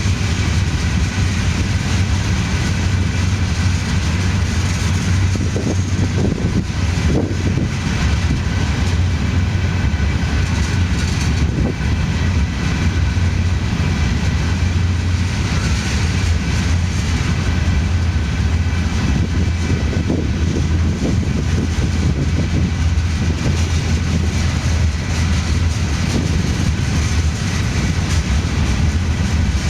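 Empty freight hopper cars of a unit train rolling steadily past: a loud, continuous rumble of wheels on rail, with scattered knocks.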